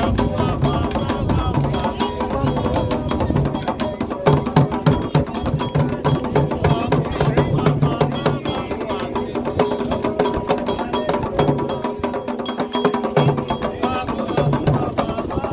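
Candomblé ritual drumming: hand drums played in a fast, dense rhythm over a sharp, rapidly repeated high strike.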